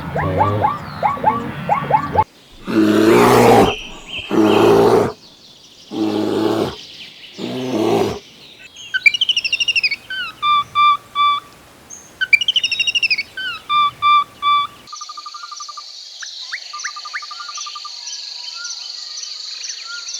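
A string of different animal calls. Short pulsing calls come first, then four loud, rough calls. From about 9 s a bird sings the same whistled phrase twice, and from about 15 s a steady high buzz runs with faint chirps.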